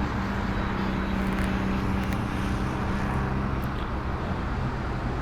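Sportbike engine running steadily under wind and road noise.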